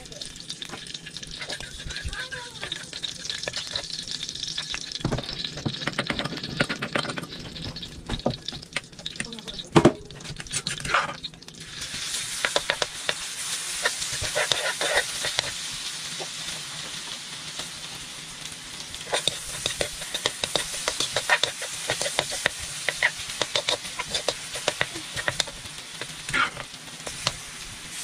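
Food frying in hot oil in an electric wok: a steady sizzle, with a metal spoon scraping and clinking against the pan as it is stirred. The sizzle grows louder and fuller about twelve seconds in.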